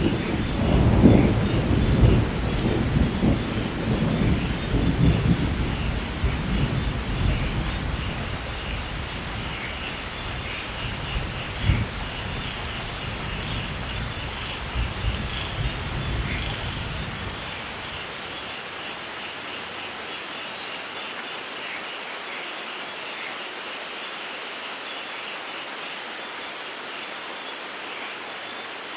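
Steady rain with thunder rumbling, loudest at the start with one sharper peak about halfway through, dying away about two-thirds of the way in to leave the rain alone.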